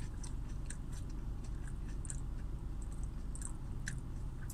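A person chewing a mouthful of French fry dipped in ice cream, with small irregular clicks of the mouth over a low steady hum.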